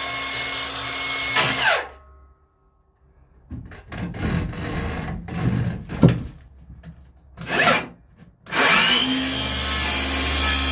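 A power saw is cutting into wood with a screw buried in it. It winds down about two seconds in. A few seconds of knocking and scraping follow as the work is handled. Near the end the saw spins up again with a rising pitch and runs steadily, going on to cut through the screw.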